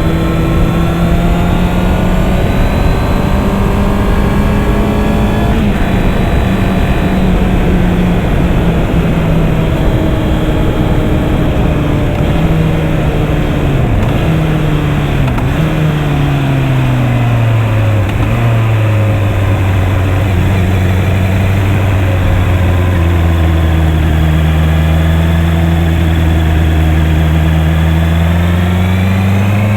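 Honda CB650R's inline-four engine running under way, with a steady rush of wind noise. Its note eases off, then drops markedly about halfway through as the bike slows. It holds low and steady for a while, then rises again near the end as the throttle opens.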